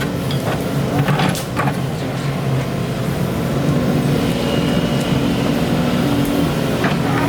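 Excavator's diesel engine running steadily, with a few short metallic knocks over it.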